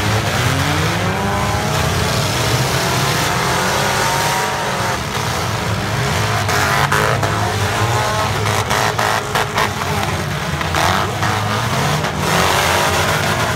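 Several four-cylinder demolition derby cars running hard, their engines revving up and down over one another, with a run of sharp knocks from cars hitting each other in the second half.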